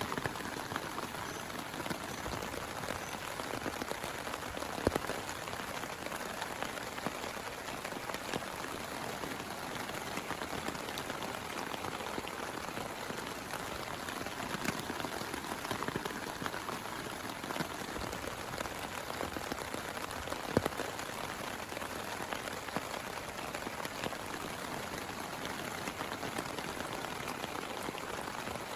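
Steady heavy rain falling, a dense even hiss with scattered individual drop hits; a couple of sharper drop impacts stand out about five and twenty seconds in.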